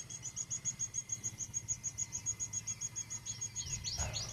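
Small birds chirping: a rapid, even series of high chirps, about eight or nine a second, with a few quick falling chirps near the end. A faint low hum runs underneath.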